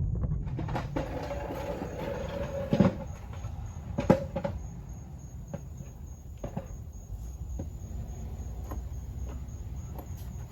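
Scraping and handling noise of parts being worked into place, with several sharp knocks and clicks, the loudest two a little over a second apart near the middle, over a steady low rumble.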